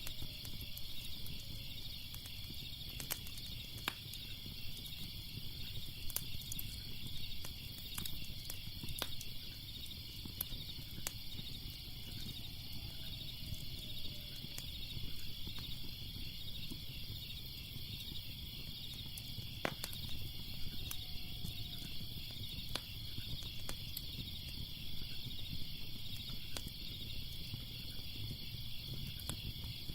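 Steady chorus of crickets chirping, with scattered pops and crackles from a wood fire over a low rumble.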